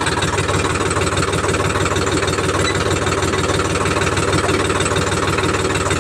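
Sonalika tractor's diesel engine idling steadily, with an even, rapid pulse.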